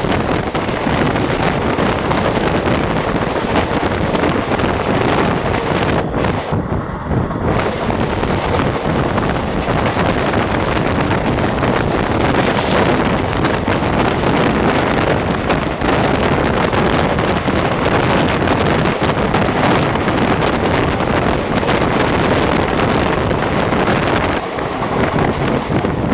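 Wind rushing hard over the microphone from a moving Indian Railways passenger express, over the steady rumble of the coach running on the rails. The hiss briefly drops away for about a second and a half, about six seconds in.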